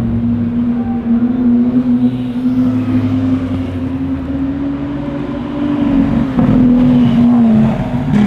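Lamborghini Aventador SVJ's V12 running through an aftermarket Deutsch Tech exhaust at low, steady revs, its pitch creeping slowly upward. A little past halfway it dips briefly, then comes back louder before falling away near the end.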